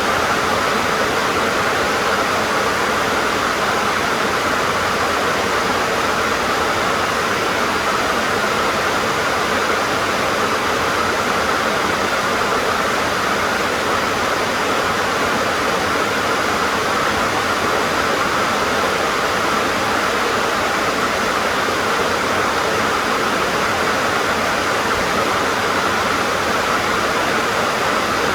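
Heavy rain falling on a tin roof, a steady, dense hiss.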